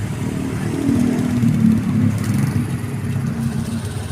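Motor vehicle engines running in slow queueing traffic: a steady low engine hum that gets louder and shifts in pitch for a moment about a second in.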